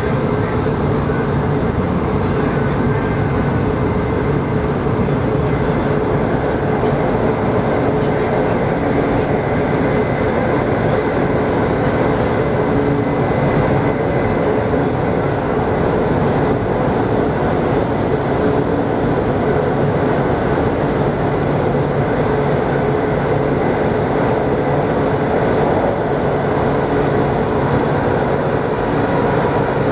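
Running noise inside a CRH6A electric multiple unit on the move: a steady rumble of wheels on rails with a few steady tones over it.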